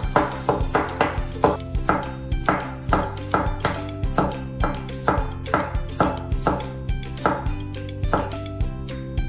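Kitchen knife chopping on a cutting board in a steady rhythm, about three cuts a second.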